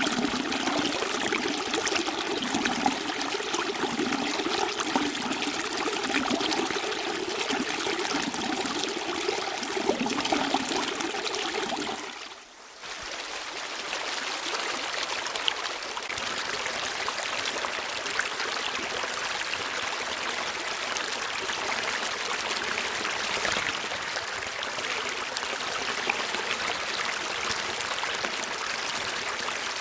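Stream water running and gurgling steadily. About twelve seconds in it dips for a moment and then carries on smoother and hissier, without the low gurgle.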